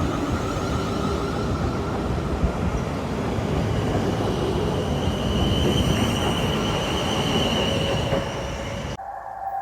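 A train running close by: a loud steady rumble with several thin, high steady whines over it. The sound cuts off abruptly near the end.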